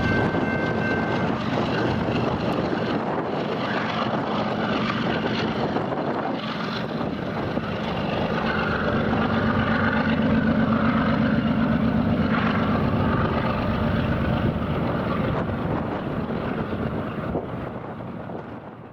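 Freight train cars rolling past, a steady rumble of wheels on rail mixed with wind noise. A few high steady squeal tones die out about a second in. The sound fades out near the end.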